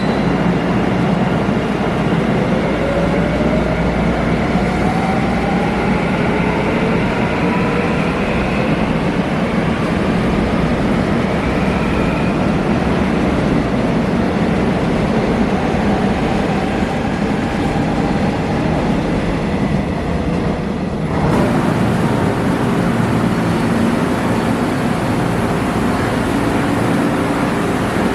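Electric train running with a steady rumble, its motors whining in tones that rise in pitch over several seconds as the train picks up speed. About three-quarters of the way through, the sound cuts abruptly to a different steady train running noise.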